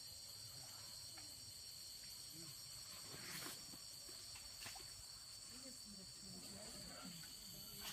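Steady high-pitched chorus of insects, crickets or cicadas, trilling without a break. A single short rustle comes a little before the middle.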